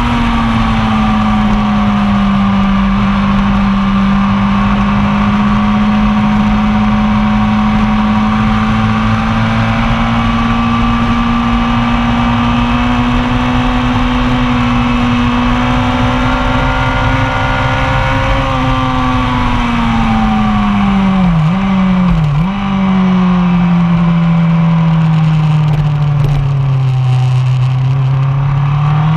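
1999 Yamaha R1's inline-four engine under load on track. Its pitch holds steady and slowly rises on a long pull, then falls away with two quick dips as the rider shifts down about three-quarters of the way through, and climbs again at the end.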